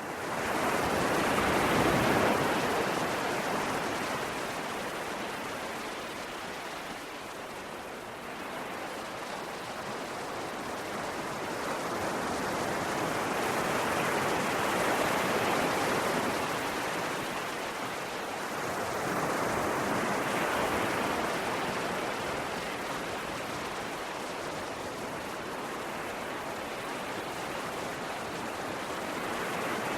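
Ocean surf: a continuous wash of waves that fades up at the start and swells and eases every several seconds, loudest about two seconds in and again around fifteen and twenty seconds.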